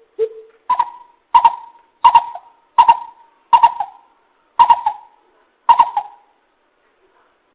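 Greater coucal calling: a series of about nine short, deep hoots, evenly spaced. The first couple are lower, the rest a step higher, and the calling ends about six seconds in.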